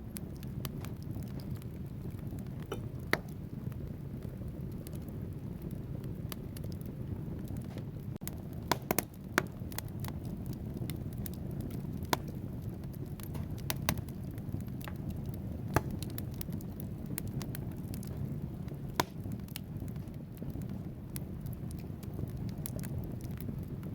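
Wood fire burning in a fireplace: a steady low rush of flames with scattered sharp crackles and pops from the logs, a quick cluster of them about nine seconds in.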